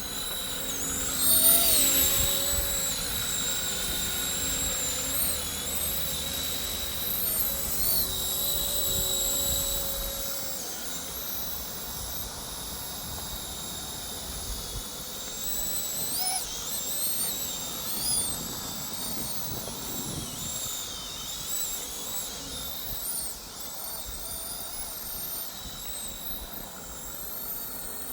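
Small electric motor and rotors of a 1/30-scale RC helicopter whining in flight, the high whine wavering up and down in pitch as the throttle changes, loudest about a second and a half in.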